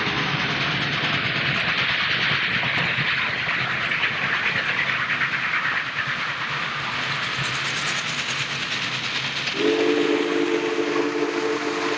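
Union Pacific 'Big Boy' No. 4014 steam locomotive working past, a steady rush of running noise with wheel-on-rail clatter. About three-quarters of the way through, its steam whistle starts blowing, several tones sounding together as one chord, held steadily.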